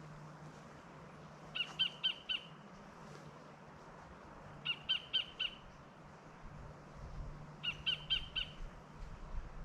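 A bird calling a short phrase of four quick, evenly spaced notes, repeated three times about three seconds apart.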